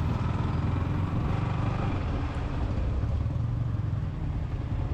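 Motorcycle engine running steadily at low speed in slow traffic, with a rapid low pulse from its firing.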